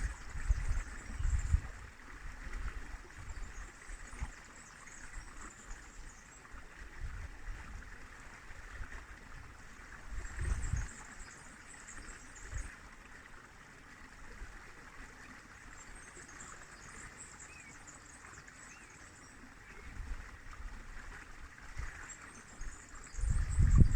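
River water flowing steadily, with gusts of wind on the microphone near the start, about ten seconds in, and again near the end.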